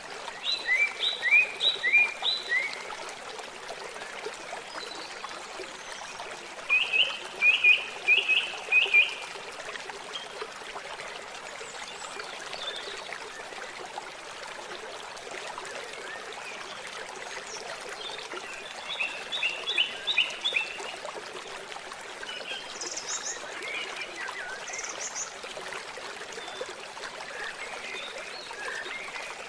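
Steady rush of flowing water, with birdsong over it: a bird repeats a short phrase of four or five quick chirps three times, and other scattered higher calls follow near the end.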